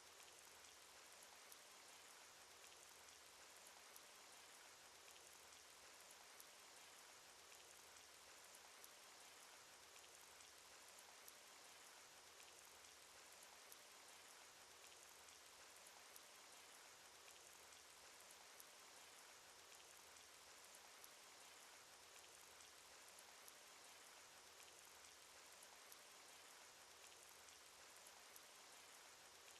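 Faint, steady rain sound effect from a cartoon: an even hiss of rainfall with many small drops ticking through it.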